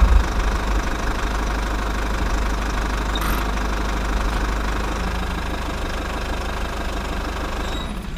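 Small tractor engine running steadily with a fast, even chug.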